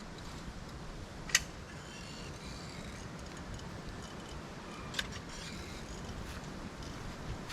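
Two sharp clicks, about a second and a half in and again about five seconds in, over a steady background hiss.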